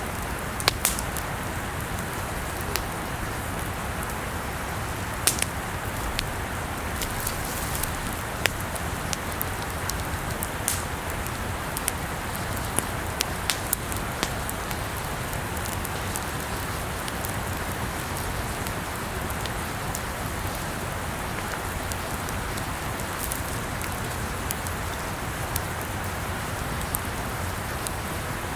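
Wood campfire burning: a steady hiss and rustle with scattered sharp crackles and pops, most of them in the first half.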